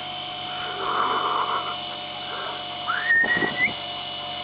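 A person's short whistle about three seconds in: a quick upward slide, then a held note that lifts slightly at the end. A steady electrical hum runs underneath.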